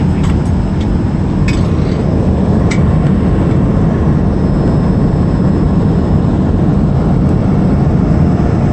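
Passenger plane cabin noise: a loud, steady, low rumble of engines and rushing air, with a few faint clicks in the first three seconds.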